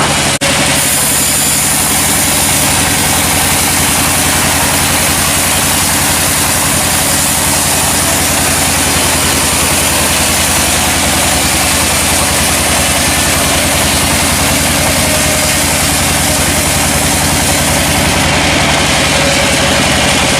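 Sawmill machinery running steadily: a loud engine-like drone under a dense hiss, with a brief drop about half a second in and a high-pitched hiss laid over it from then until shortly before the end.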